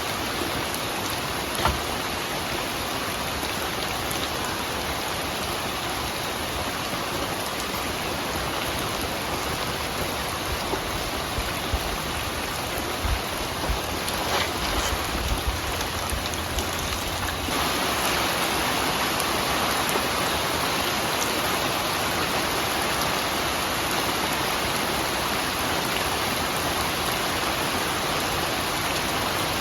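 Steady rainfall hissing, with occasional louder drops ticking on a surface; the rain grows a little heavier about two-thirds of the way through.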